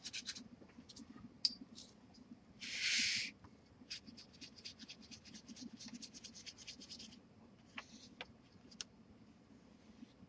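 Oil pastel scratching on textured watercolour paper in quick back-and-forth strokes, with one longer, louder rub about three seconds in and a few separate light ticks near the end.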